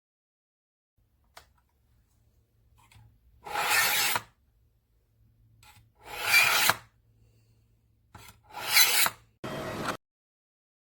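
Knife blade drawn through a pull-through knife sharpener's slot: three rasping, scraping strokes, each under a second, about two and a half seconds apart, then a shorter stroke that cuts off suddenly.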